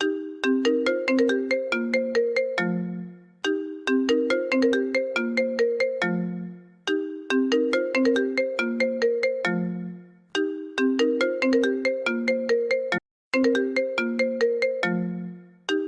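iPhone ringtone playing on a loop: a short phrase of quick ringing notes ending on a low note, repeating about every three and a half seconds. It cuts out for a moment about 13 seconds in.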